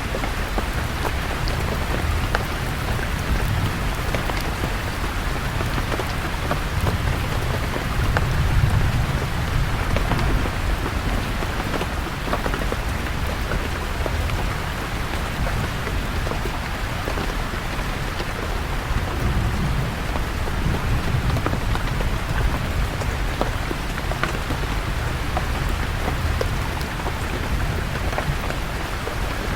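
Steady rain falling, with scattered close drops, over a low rumble of distant thunder that swells about eight seconds in and again around twenty seconds.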